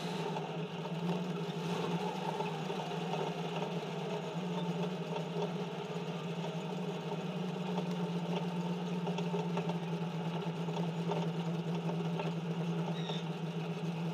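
Race car engine heard from inside the cockpit, running at a low, steady speed with an even hum and no revving.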